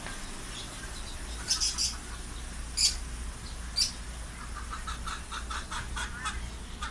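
Caged birds calling: a few short, sharp, high chirps, then from about four seconds in a quick run of short repeated calls, several a second.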